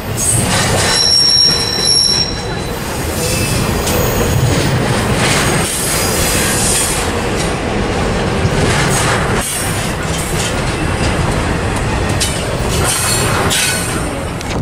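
Double-stack intermodal freight train rolling past, its steel wheels rumbling and clicking over the rail joints. About a second in, a high wheel squeal lasts about a second, as the train brakes to slow to a halt.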